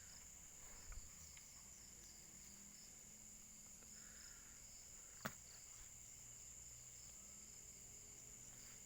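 Near silence with a faint, steady, high-pitched insect drone, with one sharp click about five seconds in.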